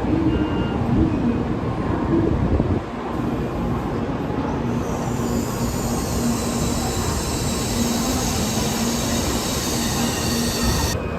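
Shinkansen bullet train running through a station, with a steady rush of noise. A high hiss builds from about five seconds in and cuts off suddenly near the end.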